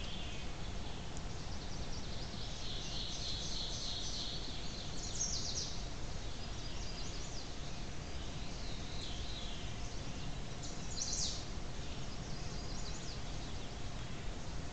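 Small birds chirping and trilling, high-pitched, in short runs, with the loudest calls about five and eleven seconds in, over a steady low rumble of outdoor background noise.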